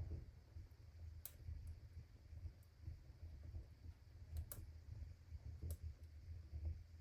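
Fire in a fireplace crackling, with a few sharp pops standing out from fainter ticks over a low steady rumble.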